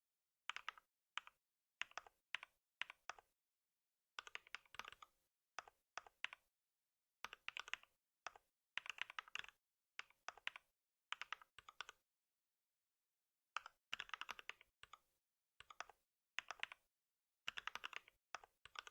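Computer keyboard typing in short runs of rapid keystrokes, broken by pauses of dead silence between runs.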